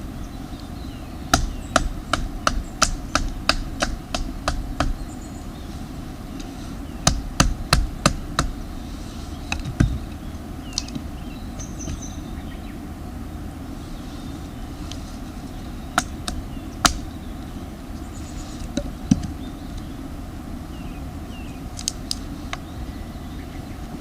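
Runs of sharp wooden knocks, about three a second, then scattered single knocks over a steady low rumble: firewood being chopped into kindling for a campfire.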